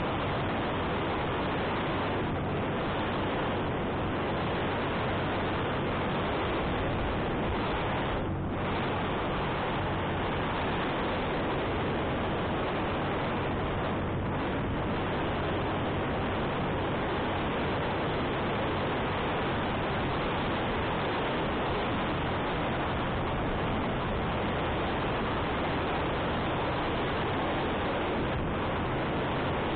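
Wind rushing over the microphone of a moving motorcycle, a steady hiss, with the motorcycle's engine as a low steady hum underneath. The wind noise briefly drops about eight seconds in.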